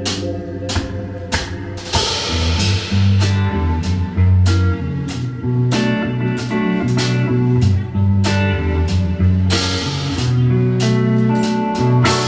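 Live band playing an instrumental passage: guitar over a moving bass line, with drums striking steadily about twice a second.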